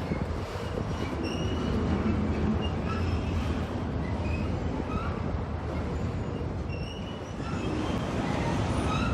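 Freight train rolling past with a steady low rumble, its wheels giving off many short, high squeals throughout.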